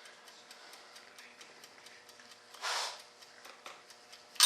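Faint, steady ticking, about three or four ticks a second, with a short rustle about two and a half seconds in. Right at the end a loud, shrill ringing starts abruptly.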